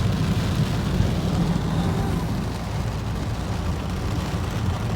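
Car driving through floodwater, heard from inside the cabin: a steady low rumble of engine and tyres with the hiss of water washing under and against the car.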